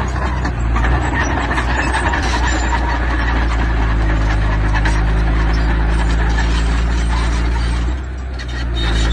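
Diesel engine of heavy construction machinery running steadily under load over a dense metallic clatter. The engine eases off briefly near the end, then picks up again.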